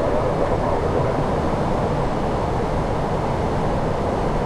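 Steady rushing noise on the flight deck of an Airbus A340-600 in flight: airflow and engine noise at a constant level, heaviest in the low range.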